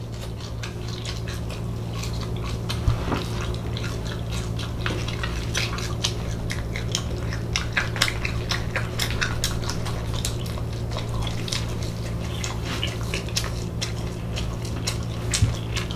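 Close-miked mukbang eating of cheesy fried chicken: chewing and lip-smacking heard as a dense, irregular run of short wet clicks and smacks, over a steady low hum.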